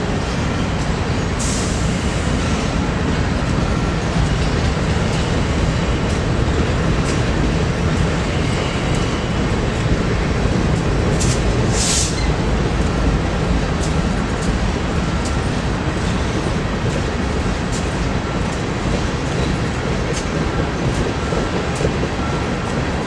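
Freight train rolling past at close range: a steady rumble of wheels on the rails, with scattered clicks and a couple of sharper clanks.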